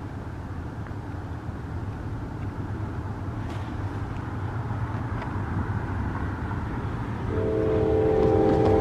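Approaching train rumbling low and growing gradually louder, then a locomotive's air horn sounds a steady multi-note chord about seven seconds in and holds.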